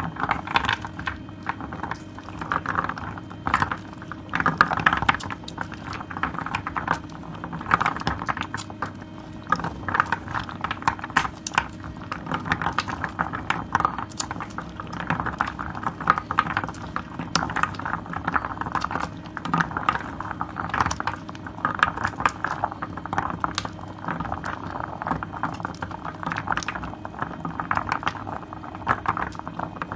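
Hands squeezing and working wet soap lather: continuous squishing with dense crackling and popping of foam bubbles, swelling and easing every second or two.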